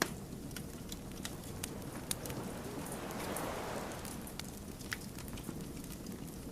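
Wood fire crackling: irregular sharp pops and snaps over a low steady rumble of burning logs, with a soft hiss that swells and fades about three to four seconds in.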